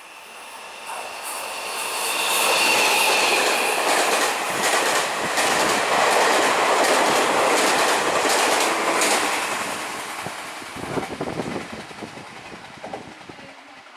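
Taiwan Railway Chu-Kuang Express passenger train running through a station without stopping. It builds over the first two seconds, with a high whine for a couple of seconds as the front passes. The wheels clickety-clack over the rail joints as the coaches go by, then the sound fades away.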